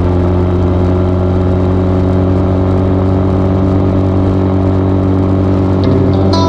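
Dirt bike engine running at a steady, even speed.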